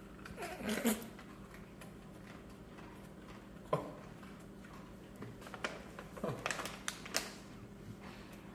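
Crisp, scattered crunches and clicks of a dry, crouton-like dog treat being chewed, with a loud crack about three and a half seconds in and a quick run of crunches later. A couple of short voice-like sounds come in between.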